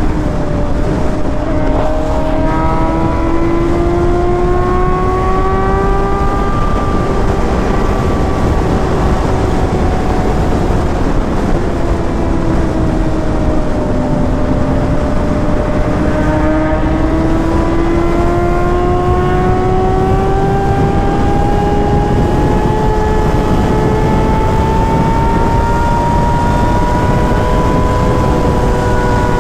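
Sportbike engine running at riding speed under heavy wind noise on the helmet microphone. The engine note climbs slowly for the first few seconds, eases down until about halfway, then climbs steadily again.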